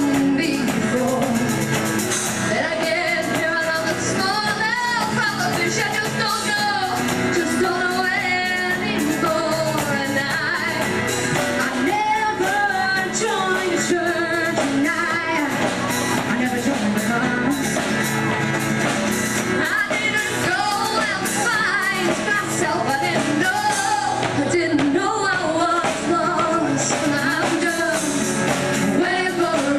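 Live performance of an original song: two women singing over instrumental accompaniment.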